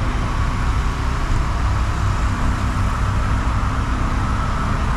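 Steady low rumble of idling vehicle engines and traffic noise, with no sudden events.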